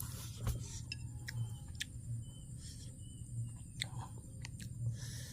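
A person eating: soft chewing with scattered light clicks and ticks, over a steady low hum.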